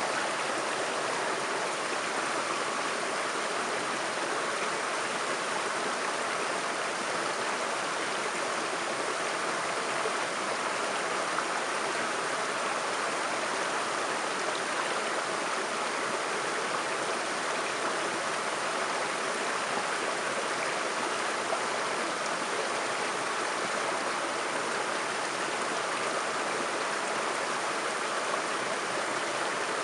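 Small river waterfall, water pouring and splashing in a steady rush with no lulls.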